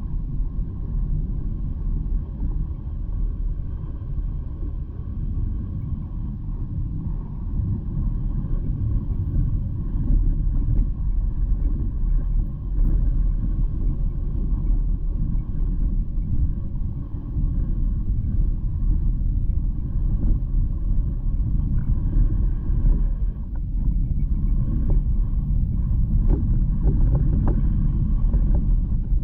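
Steady low rumble of an e-bike riding over rough forest ground: jolting and handling noise through the bike-mounted microphone, with a few brief knocks near the end.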